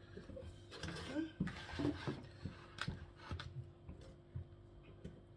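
Scattered small clicks and taps of chicken feet being handled and their nails removed, over a faint steady hum.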